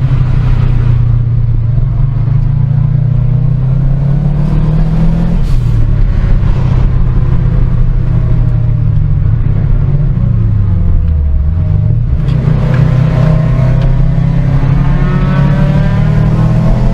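Car engine running hard and loud under changing throttle: its pitch climbs, drops suddenly about five seconds in as at a gear change, sinks and climbs again around ten to eleven seconds in, then rises once more near the end.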